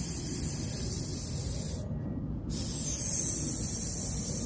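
A snake hissing in long breaths: one hiss cuts off a little under two seconds in, and after a short pause a second hiss starts about two and a half seconds in. A low rumble runs underneath.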